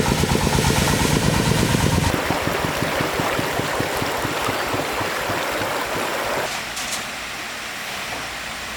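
Vehicle engine running with a rapid, even beat, loud for about two seconds, then much quieter and fading out about six seconds in, leaving a steady rushing noise.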